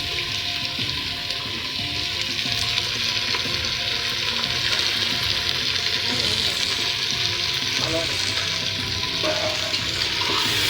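Food frying steadily in a hot pan, a continuous sizzle.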